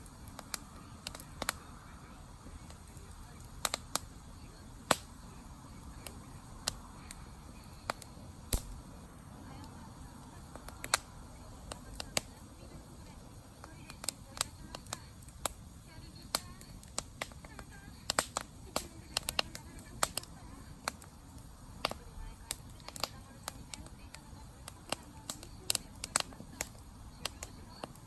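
Wood campfire crackling: irregular sharp pops and snaps, several close together at times, over a low steady rumble of the burning fire.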